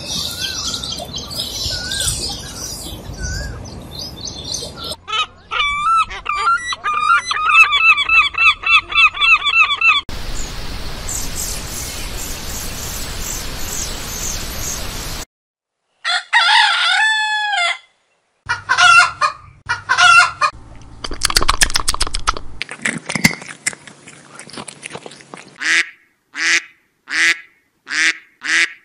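A string of different bird calls cut one after another: repeated chirping calls, a brief silence, then assorted calls, and near the end a greylag goose honking in a regular series, about one call every two-thirds of a second.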